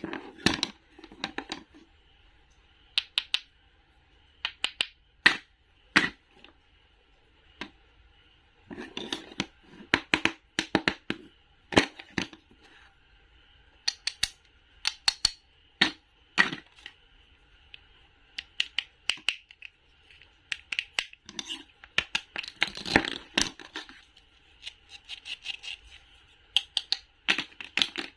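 Knife cutting through fruit and vegetables: crisp clicks and crunches in irregular runs of quick strokes with short pauses, over a faint steady high tone.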